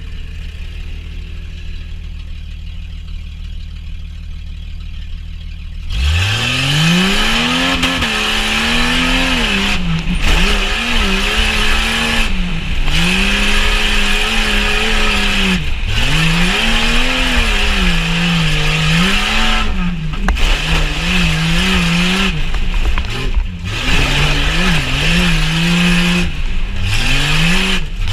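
Jeep Cherokee XJ engine idling low and steady, then about six seconds in revving up sharply and running hard, its pitch rising and falling again and again as the throttle is worked.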